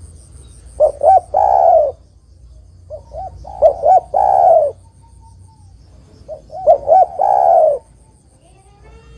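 Spotted dove (tekukur) cooing: three phrases about three seconds apart, each a couple of short notes followed by a longer, louder coo.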